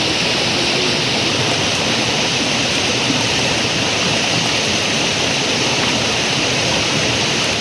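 Steady rushing of a river, an even hiss with no breaks.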